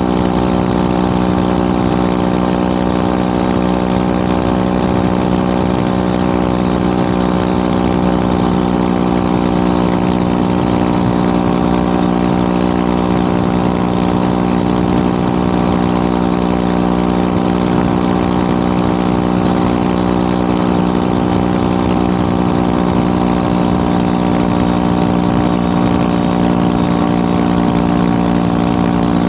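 Motorcycle engine running steadily at one constant pitch, with a steady rush of wind and road noise.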